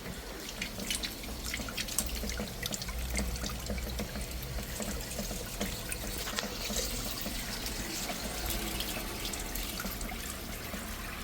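Water running and splashing over built-up ice inside a refrigerator, with many scattered drips, as it is used to melt the ice that has blocked the fridge and stopped the lower part from cooling.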